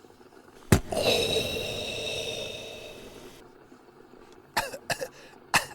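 A sharp click, then a long hissing whoosh that fades away over about two and a half seconds: a comedy sound effect for a sudden puff of smoke. A few short clicks follow near the end.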